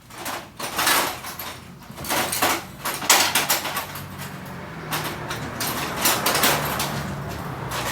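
Metal tools clicking and scraping against brake hardware at a car's front wheel, with a string of sharp knocks and rattles.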